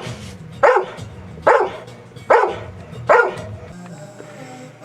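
Dog barking about four times, a little under a second apart, with the barks stopping near the end.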